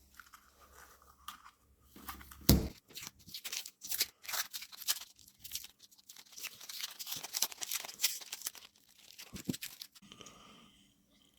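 Dense crinkling and scraping handling noises from hands at work, with one loud knock about two and a half seconds in.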